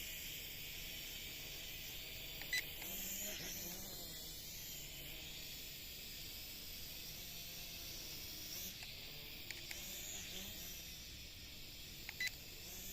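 JC801 toy quadcopter in flight, its propellers giving a faint steady high whine and hiss. A short electronic beep sounds about two and a half seconds in, and two more close together near the end.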